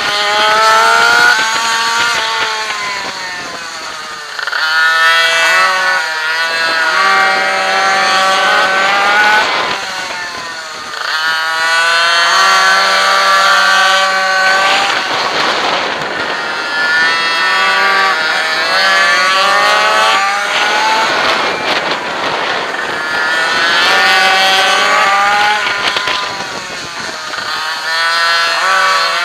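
Two-stroke minimoto engine revving hard under race load, its pitch climbing as it accelerates and dropping away as it backs off, over and over through about six cycles.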